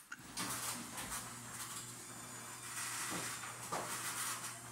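Steady rain falling and splattering on pavement, an even hiss with scattered louder drips, over a low steady hum.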